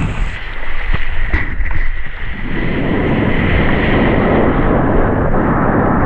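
Wind buffeting an action camera's microphone while kitesurfing, mixed with the rush of water under a skimboard. The rush thickens and grows louder about two and a half seconds in.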